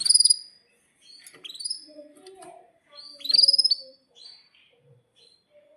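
Domestic canary singing: loud, high rising chirps right at the start and again about three seconds in, with quieter calls between them.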